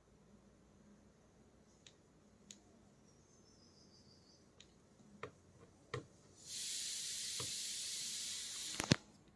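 A few light clicks, then a steady hiss for about two and a half seconds that cuts off with a sharp click.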